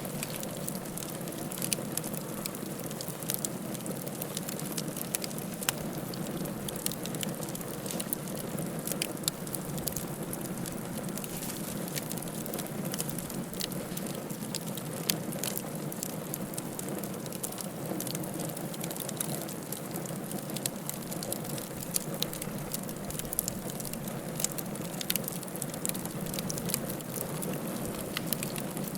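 Wood fire crackling steadily in a fireplace: a low, even rush of flame with many irregular sharp pops and snaps.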